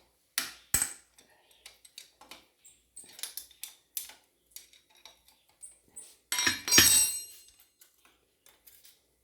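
Metal tools and engine parts clinking and knocking during motorcycle engine disassembly, with a louder metallic clatter about six and a half seconds in.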